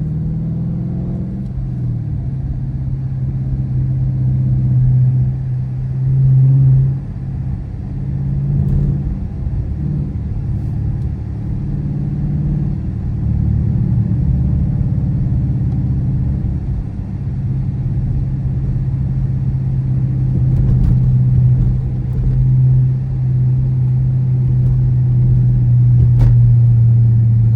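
Car engine and exhaust droning steadily while driving, with small rises and falls in level as the throttle changes.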